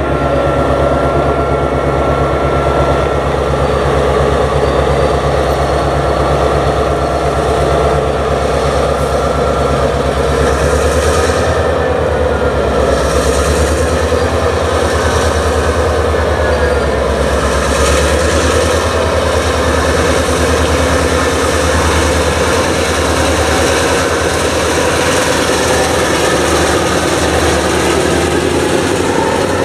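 Norfolk Southern EMD GP38-2 diesel locomotive running steadily as it leads a freight train past, its engine drone growing as it comes close near the end, with the rumble of the tank cars rolling on the rails behind it.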